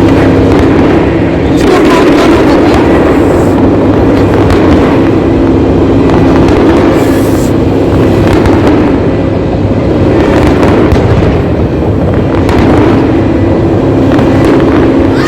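Fireworks bursting in a string of sharp bangs over a continuous loud, distorted rumble, the recording overloaded by the noise.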